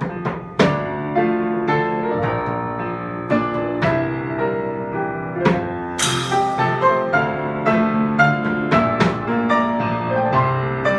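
Live instrumental passage led by piano, held chords and melody notes with light percussion strikes, and a bright crash that rings on about six seconds in.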